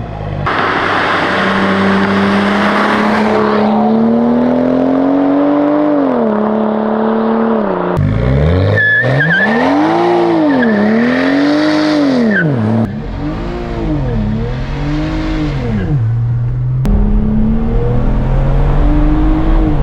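BMW E92 335i's N54 turbocharged straight-six heard through its muffler-deleted exhaust, in several short clips: first the engine note climbs steadily under a pull, then it is revved up and down several times, then it settles to a steadier low running note near the end.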